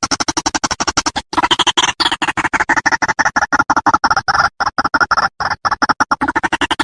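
White-breasted waterhen's call played as a bird lure: a fast, rhythmic chatter of about a dozen short notes a second.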